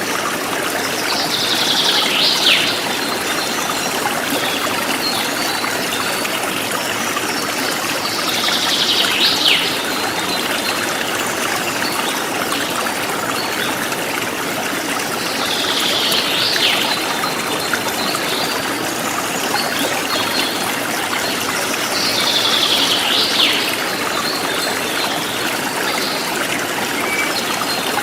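Forest stream running steadily, with a bird call repeated four times about every seven seconds: a falling sweep ending in a sharp, high note.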